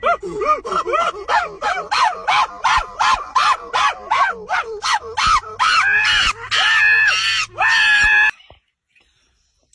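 A dog yapping in a fast run of short yelps, about three a second, that turn higher and longer before cutting off suddenly about eight seconds in.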